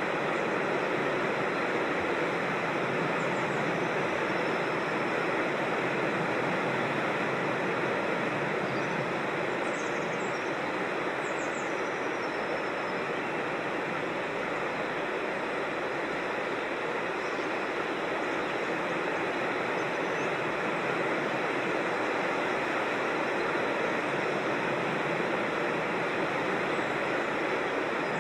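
Rushing creek water, a steady even rush. A few faint bird chirps come through about a third of the way in.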